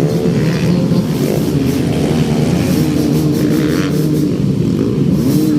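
Dirt-bike engines racing on a dirt track, several at once, their pitch rising and falling as the riders open and close the throttle.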